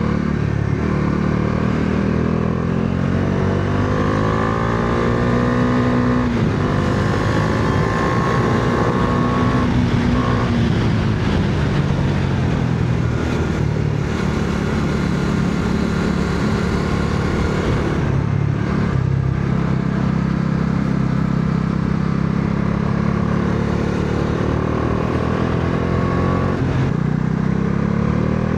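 Bajaj Dominar 400's single-cylinder engine under hard riding: it revs up through the gears, its pitch climbing, breaking off at the shifts, and holding high at speed before dropping back and pulling up again near the end.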